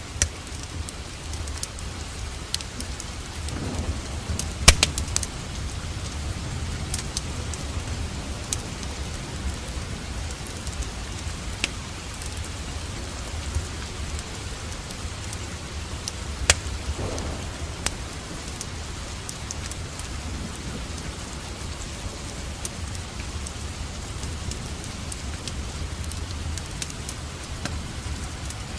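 Steady rain with a wood fire crackling in a fireplace: scattered sharp pops over the even hiss of the rain, the loudest about five seconds in and again past the middle.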